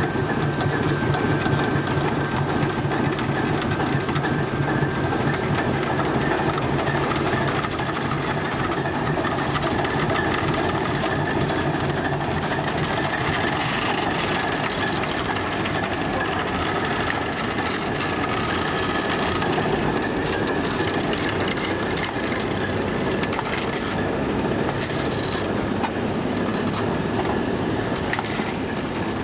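A train running along the track: a steady rumble with wheel-on-rail noise.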